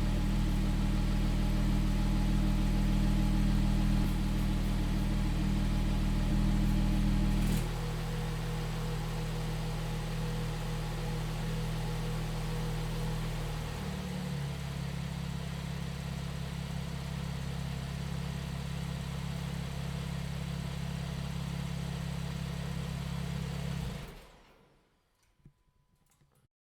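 Porsche 911 Carrera 4S flat-six engine idling steadily. The idle drops a step in loudness and pitch about a third of the way in and settles a little lower again around halfway. Near the end the engine is switched off and dies away quickly, followed by a faint click.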